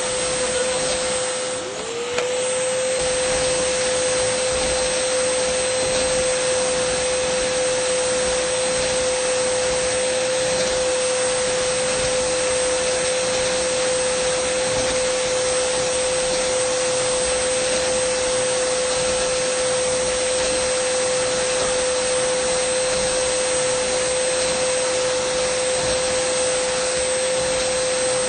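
Dyson vacuum cleaner running steadily: a loud even rush of air over a high motor whine. About two seconds in, the whine dips briefly and climbs back up to speed.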